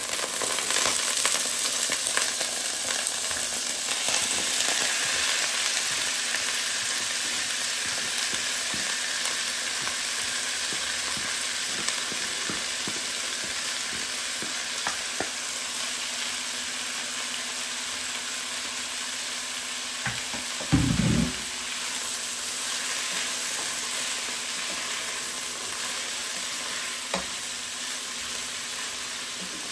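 Food frying in hot oil in a pan: a steady sizzle, loudest in the first few seconds and easing off gradually, with small taps and scrapes of a utensil stirring it. A single dull thump about two-thirds of the way through.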